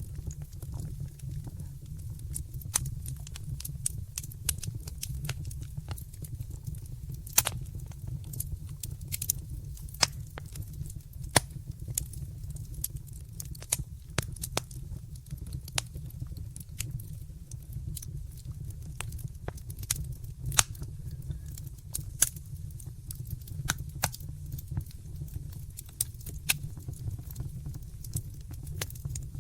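Wood fire in a fireplace burning with a steady low rumble and irregular sharp crackles and pops scattered throughout, a few of them louder.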